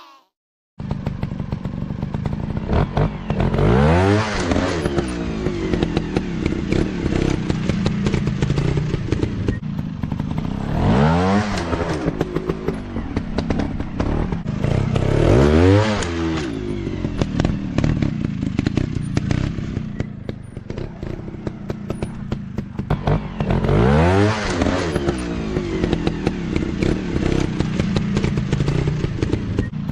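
Dirt-bike engines running hard as several motorcycles ride past one after another, the engine pitch swelling and falling with each pass about four times.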